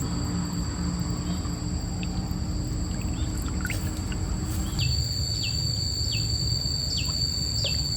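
Steady rushing of a mountain stream under a constant high-pitched insect buzz, with a run of short falling chirps repeating about every half second from about five seconds in.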